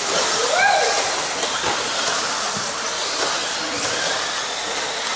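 Electric 1/10-scale RC stadium trucks running around the track: a steady hissing whir of motors and tyres, with faint rising and falling whines as they speed up and slow down.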